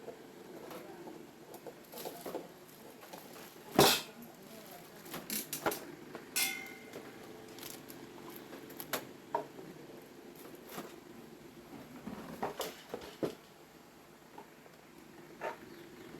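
Scattered clicks and knocks of tools and small parts being handled while working on an electric fan, the loudest knock about four seconds in, with one metallic clink that rings briefly a couple of seconds later.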